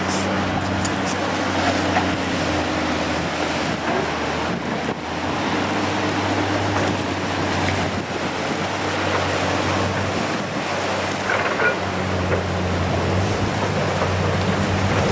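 Steady wind noise with a low, even engine-like hum underneath.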